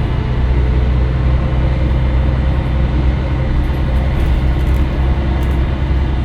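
Scania L113CRL bus running steadily: a constant low engine drone with road noise and no change in pitch.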